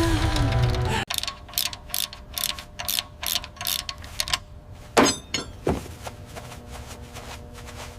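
Rapid mechanical clicking, about five sharp clicks a second for some three seconds, starting right after an abrupt cut about a second in; then two short swishes.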